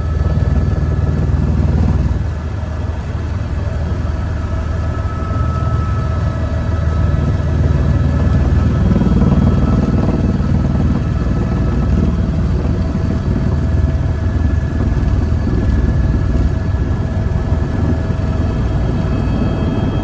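Helicopter engine and rotor noise: a steady, loud low rumble with a constant whine above it.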